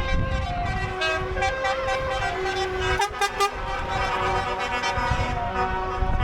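Horns of passing trucks and tractors tooting over the low rumble of their engines, several horn pitches sounding at once, with three sharp clicks about three seconds in.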